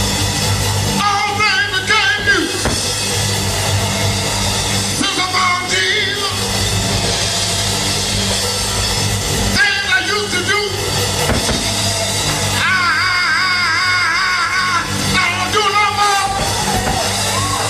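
Gospel quartet music: a band with drum kit and bass playing steadily, with a wavering lead melody line coming in and out over it.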